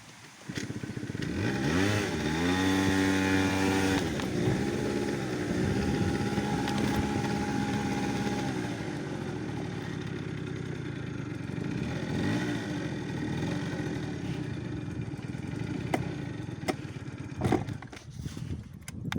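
An engine revving up about half a second in, then running with its pitch rising and falling, with a few sharp clicks near the end.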